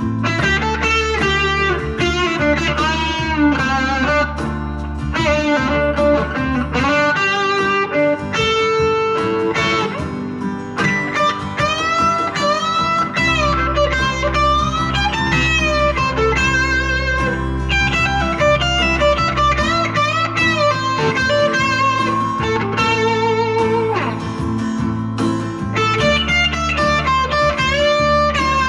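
Overdriven electric guitar lead with many string bends: a Squier Jaguar's single-coil pickups through a JHS NotaKlon (Klon-style overdrive) with its gain wide open, into a Vox AC10 amp. A backing track with steady bass notes that change every several seconds plays underneath.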